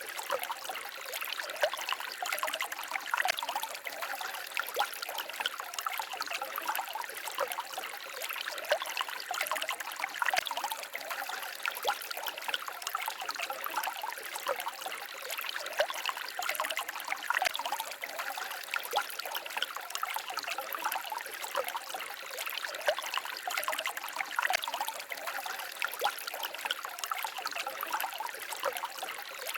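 A small stream trickling and babbling over stones, steady and continuous with a light, bright splashing texture.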